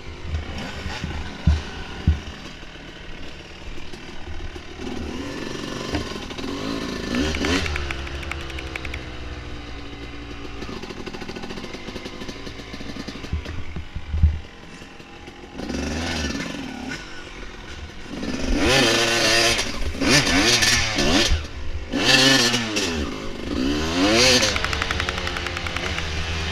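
Dirt bike engine running, its revs rising and falling again and again, louder in the last third. There are a few sharp knocks near the start.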